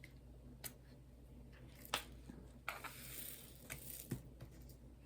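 A few faint, light clicks and taps of small objects being handled on a table, spread about a second apart, with a brief soft rustle near the middle.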